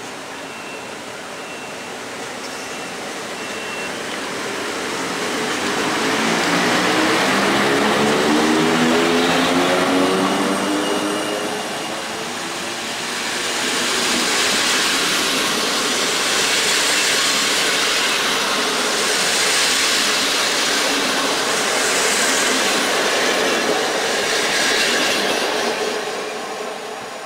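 EP07 electric locomotive drawing a train of Intercity passenger coaches past at low speed, its motors giving a whine that rises in pitch as it gathers speed. The coaches then roll by with a swell of wheel noise about every two and a half seconds, and the sound fades as the last coach clears.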